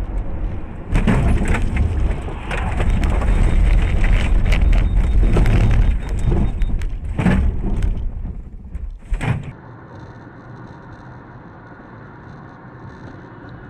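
Vehicle collision picked up by a dashcam. A sudden loud hit about a second in is followed by several seconds of loud crunching and rumbling, with further knocks around seven and nine seconds in. It then settles to a quieter steady hum.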